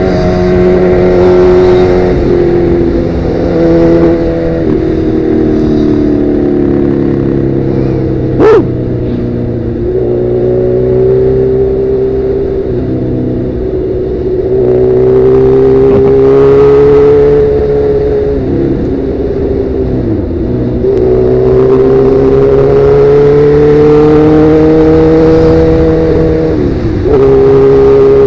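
Sportbike engine through a Danmoto XG-1 aftermarket exhaust while riding: the exhaust note climbs and drops back several times as the bike accelerates and changes gear. One brief sharp click about a third of the way through.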